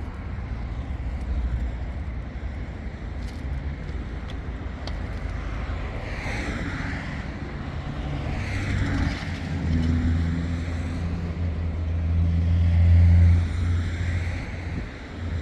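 An engine running steadily, with a low hum that grows louder towards the end, then eases off just before the end.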